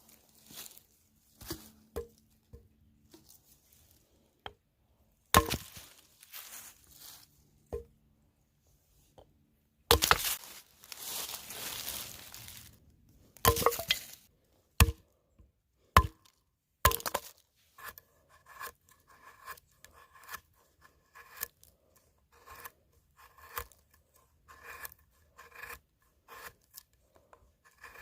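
Knife cutting and scraping a piece of fatwood: scattered sharp cuts and short rasps, a longer scrape about ten seconds in, then from about eighteen seconds in a steady run of short strokes, roughly two a second, each with a slight squeak.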